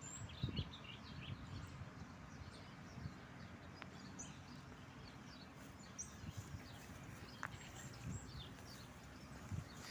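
Many small songbirds chirping in short, scattered high calls, over a low, uneven rumble.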